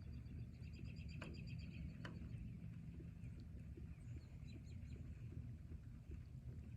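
Wild birds calling over a steady low rumble of background noise: a rapid trill of repeated high notes in the first two seconds, with two sharp clicks, then scattered short chirps.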